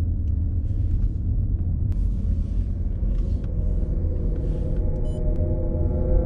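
Steady low rumble of a car in motion, engine and tyres heard from inside the cabin, with a few faint clicks.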